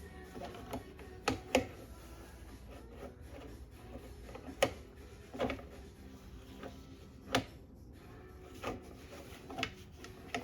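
Scattered sharp clicks and knocks of hard plastic, about one every second, as the plastic blade covers of a portable band saw are handled and worked into place under their tabs.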